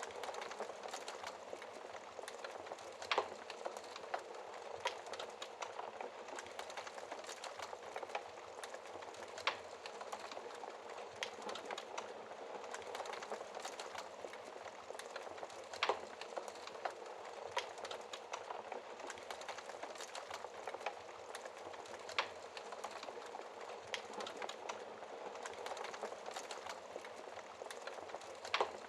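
Logs burning in a fireplace: a steady soft hiss of flame with constant crackling and scattered sharp pops, a few of them louder.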